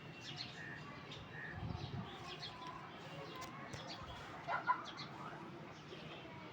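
Young Aseel chickens giving faint, scattered short chirps and calls, with one louder brief call about four and a half seconds in.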